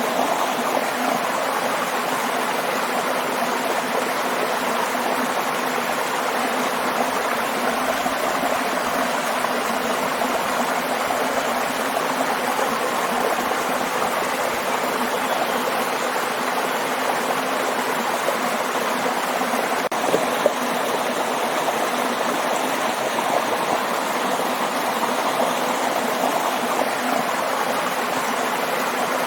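Waterfall rushing steadily, with a brief click about twenty seconds in.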